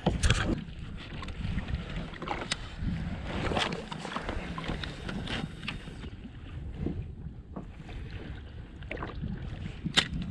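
Water splashing and lapping around a kayak, with wind rumbling on the microphone. Scattered sharp clicks and knocks run through it, one louder than the rest near the end.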